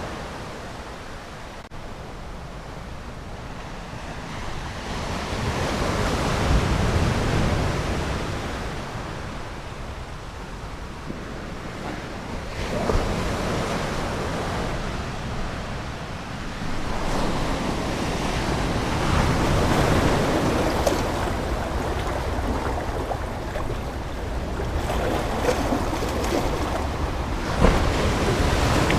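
Ocean waves breaking and washing on a shore, swelling and ebbing every few seconds, several times over.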